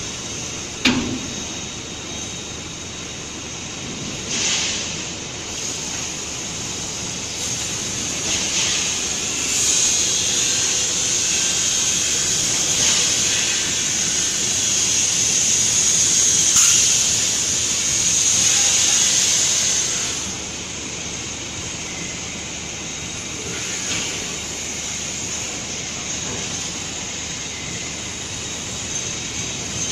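Steady high hiss of a tow truck's machinery running. It swells louder in the middle, with a sharp click about a second in and a few fainter knocks.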